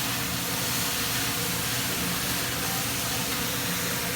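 Steady hiss of hibachi restaurant background noise over a low hum, with no distinct events.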